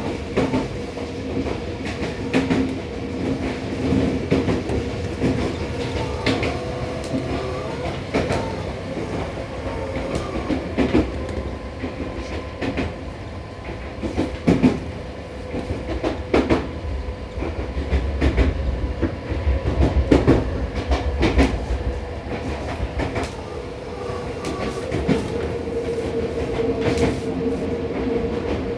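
Seibu 6000 series electric train running at speed, heard inside a motor car: a steady hum from the Toshiba IGBT inverter and traction motors over the rumble of the wheels. The wheels click sharply over rail joints now and then.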